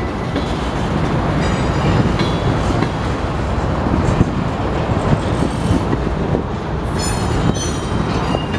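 Slow-moving Union Pacific freight train of empty centerbeam flatcars rolling past on the rails, with a steady rumble of the wheels. High-pitched wheel squeals come in about a second and a half in and again near the end.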